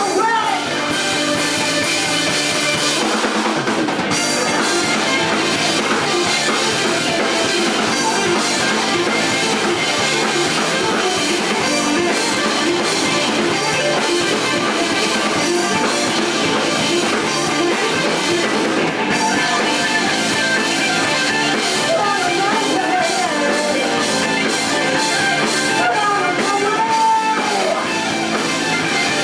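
Live rock band playing: drum kit and guitars at full band volume, steady throughout.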